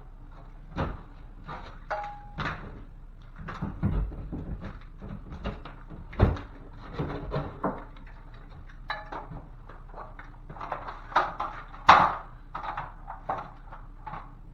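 Irregular knocks, taps and clatters from hand work cutting out drywall, the loudest near the middle and again near the end, with a brief steady tone about two seconds in.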